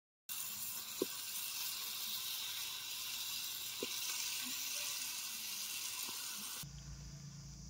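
Onions, tomatoes and chicken pieces sizzling in hot oil in an aluminium pan, with a few sharp clicks, as the chicken is dropped in by hand. Near the end the sizzle fades and a low steady hum takes over.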